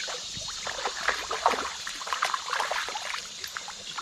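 Creek water splashing and trickling in quick, irregular splashes over a steady rush of flowing water.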